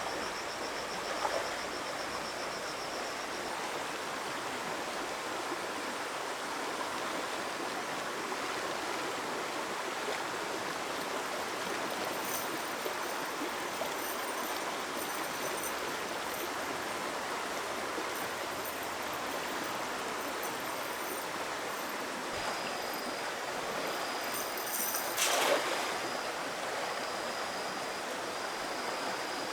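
Stream water flowing steadily, with one short, louder splash-like sound near the end.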